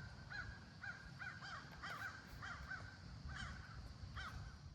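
A bird calling over and over in short up-and-down notes, roughly two a second and unevenly spaced, over a low steady rumble.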